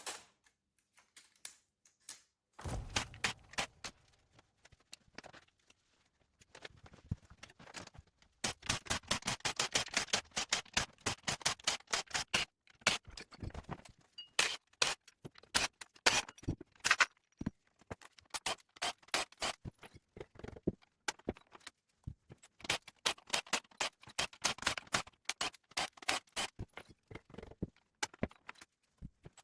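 Hand tools working on metal: runs of rapid clicking with scrapes, and a dull thump about three seconds in.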